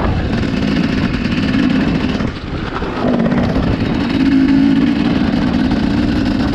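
Dirt bike engine running while riding, easing off briefly about two seconds in and then pulling back up to a higher, steady pitch.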